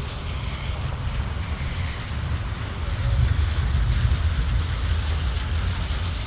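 Wind buffeting the microphone outdoors, a steady low rumble that flutters in strength, with a light hiss over it.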